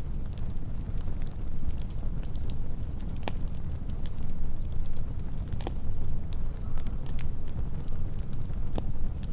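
Campfire burning with a low rumble and sharp, scattered crackles and pops. Crickets chirp repeatedly in short high chirps, coming faster for a few seconds near the end.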